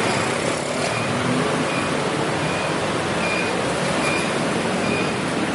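Long train passing at speed: a steady, loud rush of running noise, with a faint short high tone repeating a little more often than once a second.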